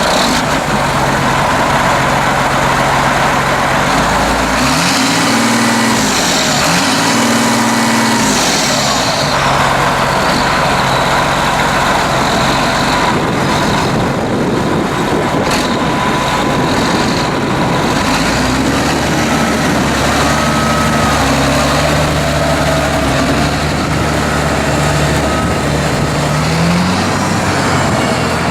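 John Deere 8120 tractor's turbocharged six-cylinder diesel engine running steadily. Its pitch rises and falls a few times about five to nine seconds in and climbs again near the end.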